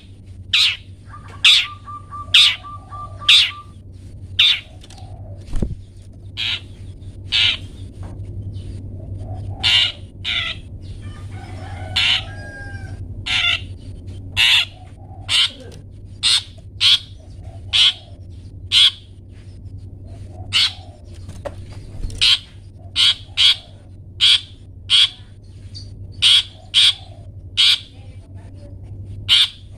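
Long-tailed shrike (cendet) giving its 'toet toet' call: short, sharp notes repeated about one to two per second, over a steady low hum.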